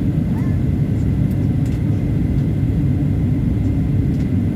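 Steady low rumble of an airliner's engines and airflow heard inside the passenger cabin as the plane comes in to land, with a faint steady whine above it.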